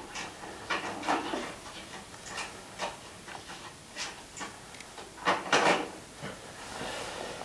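Scattered light clicks, knocks and rustles of small objects being handled and set down on a work surface, with a louder cluster of knocks about two-thirds of the way through.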